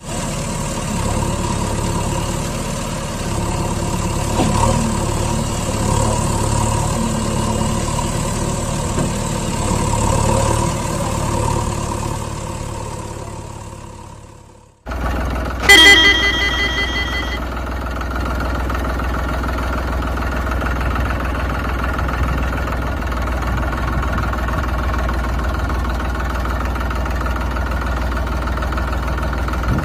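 Tractor engine running, fading away about halfway through. After a moment of silence another engine sound starts abruptly with a short burst of beeps, then runs steadily.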